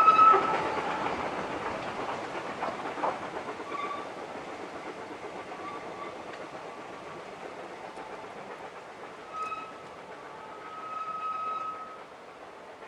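Tail of a narrow gauge train, open wagons and a brake van, rolling past close by and then away round a curve, its wheels clacking and fading. There are short high squeals as the brake van passes, and more high squeals further off, the longest about a second near the end.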